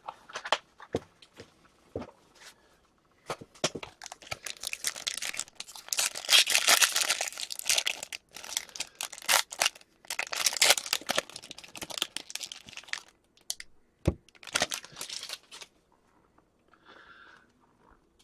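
Hockey card packaging torn open and crinkled: a few light clicks, then several seconds of dense tearing and crinkling, with a last burst about fifteen seconds in.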